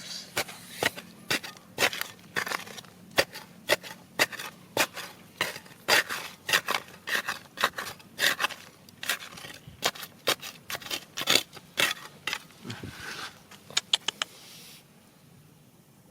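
Gravel and stones scraping and crunching in quick, irregular strokes, as when digging through rocky ground. It stops about fifteen seconds in.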